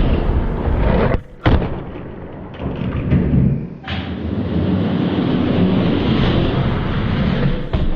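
Loud rumbling of Hot Wheels die-cast monster trucks racing down a track, with thuds. The rumble cuts off abruptly about a second in and again near four seconds, then starts again.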